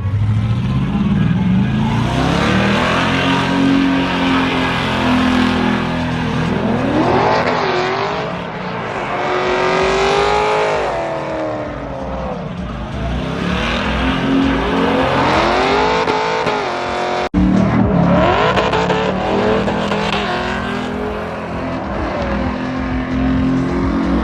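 Truck engines revving hard again and again, the pitch climbing and falling back several times, with a brief sharp break about seventeen seconds in.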